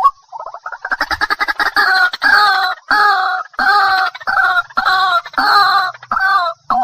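White-breasted waterhen (ruak-ruak) calling: a quick run of short stuttering notes, then a steady series of loud repeated calls, about two a second.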